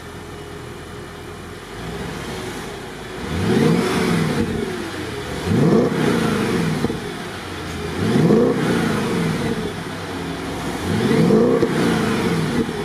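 Audi S5's V8 engine idling and then revved four times, each rev climbing and falling back, about every two and a half seconds, through its exhaust.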